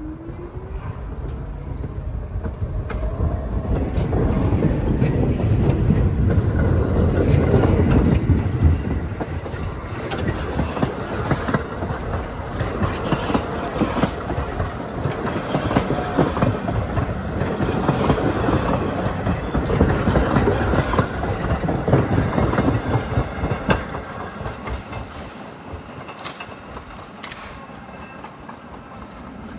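New York City subway Q train running past, its steel wheels clacking over the rail joints. A rising motor whine comes in the first few seconds. The noise builds over about eight seconds, holds, and fades over the last several seconds.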